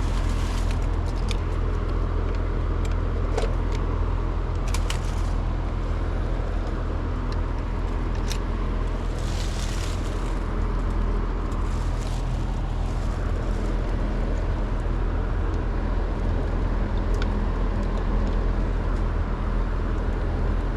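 Steady low hum of a running Trane two-stage outdoor air-conditioning unit, with scattered light clicks and a brief hiss about nine seconds in.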